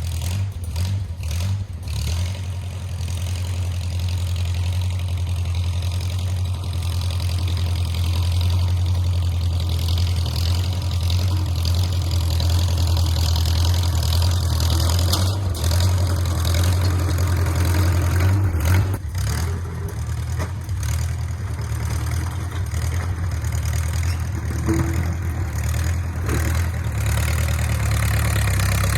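A 1950s micro bulldozer's engine running at a steady speed, with two brief dips in loudness.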